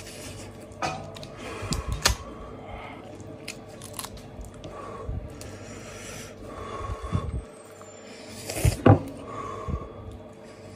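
Close-miked chewing and wet mouth smacks while eating meat, mixed with the squelch of hands pulling meat apart. Several sharp clicks and smacks stand out, the loudest near the end.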